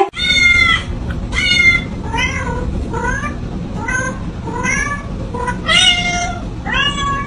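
Cat meowing over and over, about nine meows roughly a second apart, each rising and then falling in pitch, the first and one about six seconds in loudest. A steady low hum runs underneath.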